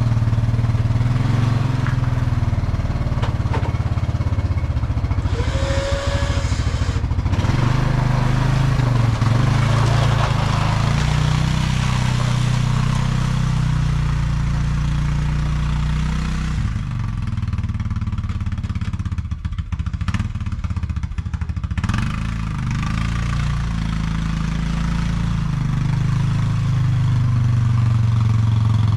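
ATV engine running under load while plowing snow. Its pitch rises and falls with the throttle, with a rushing noise over it through the first half.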